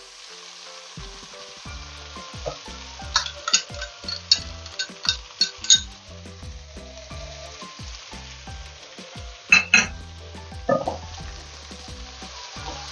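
Chopped onions and browned chicken sizzling in hot oil in a pot, a steady frying hiss. A quick run of sharp clinks comes about three seconds in and another pair later, and a wooden spatula starts stirring near the end.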